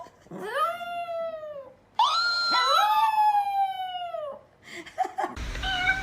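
A dog howling: several long drawn-out howls, each rising quickly and then sliding slowly down in pitch, two of them overlapping near the middle. The howls stop about four and a half seconds in, followed by a few short calls.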